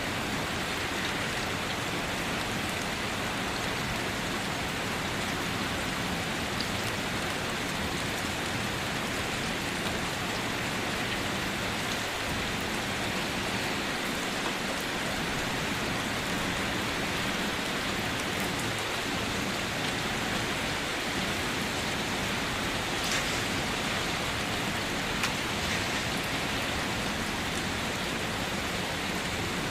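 Steady rainfall pattering on surfaces, an even hiss of drops with an occasional single louder drop tick, no thunder.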